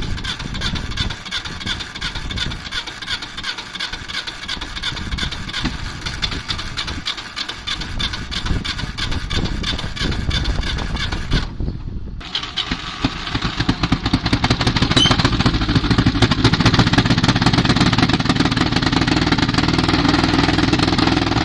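Soviet T-100's diesel engine running with a rapid throbbing beat. After a short break about halfway through, it runs louder and heavier.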